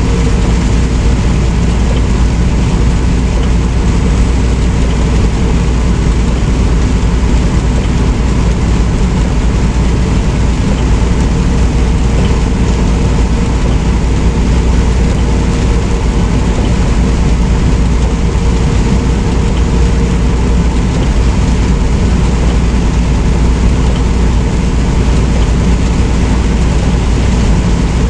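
Semi truck driving, a steady low engine drone mixed with road noise that holds without change.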